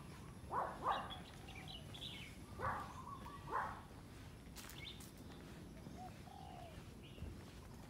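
Birds calling and chirping in light outdoor ambience, with four louder short calls: two about a second in and two more a couple of seconds later.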